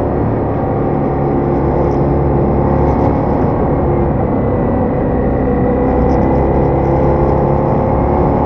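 Ducati Diavel motorcycle engine running at a steady engine speed, holding an even, loud tone.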